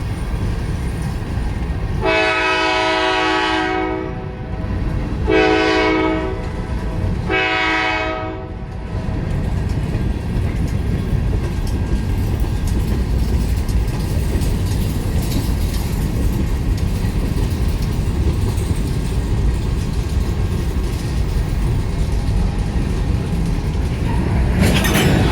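Nathan K5LA five-chime horn on a CSX GE CW40-8 locomotive sounding three blasts, long, short, then long, followed by the steady rumble and clatter of a long train rolling past.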